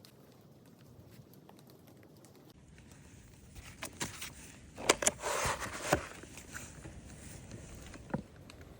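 Close handling noises: a few sharp clicks and knocks with a short rustle about five seconds in, and one more click near the end.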